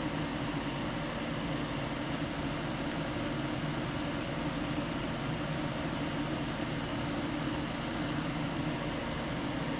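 Steady machine hum with hiss and a few faint ticks.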